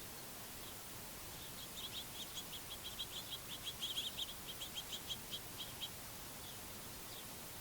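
A small songbird calling a rapid series of short high chip notes, about six a second, for about four seconds over a faint steady outdoor hiss.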